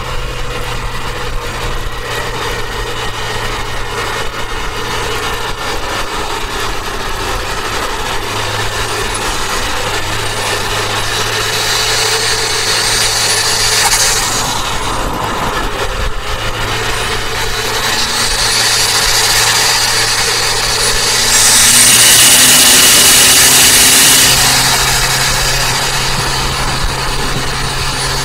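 Turbocharged Toyota Avanza driving at speed: steady engine and road noise with a low hum, a faint high whine rising and falling several times, and a louder hiss for about two seconds near the end.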